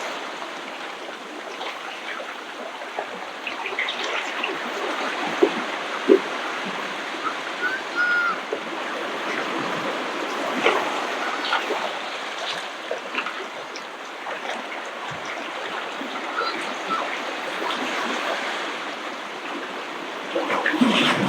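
Ocean waves washing up the beach: a steady hiss of moving water, dotted with many small splashes and crackles.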